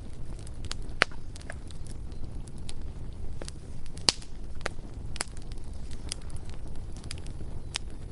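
Bonfire crackling, with sharp pops at irregular intervals over a steady low rumble. The loudest pops come about a second in and about four seconds in.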